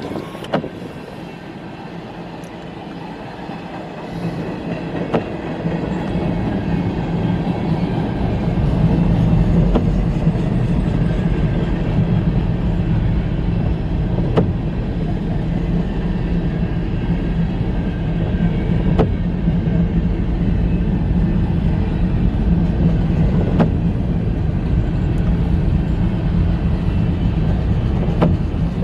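Freight cars of a mixed freight train rolling past, a steady rumble of wheels on rails with a few sharp clicks. It grows louder over the first eight seconds or so, then holds steady.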